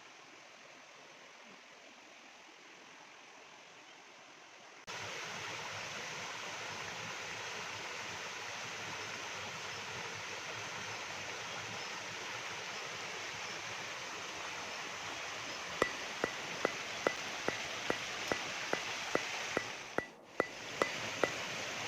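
Steady rush of falling water from a waterfall, a fainter hiss that turns abruptly louder about five seconds in. Over the last few seconds a regular run of sharp ticks, about three a second, sounds over the water.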